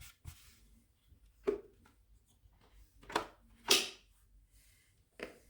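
A few short rustles and clicks as a disposable mopping cloth and its mop rack are handled and fitted to a robot vacuum. The two loudest come close together about three to four seconds in.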